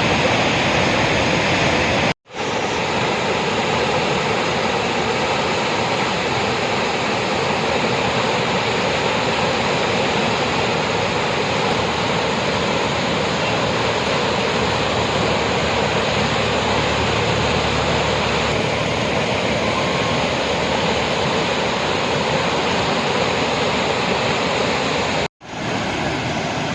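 Loud, steady rush of floodwater, broken by two abrupt cuts about two seconds in and near the end.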